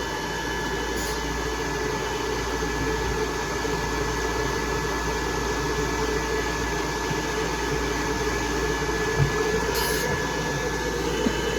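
Pet hair dryer (blower) running steadily, a constant rushing airflow with a thin steady whine.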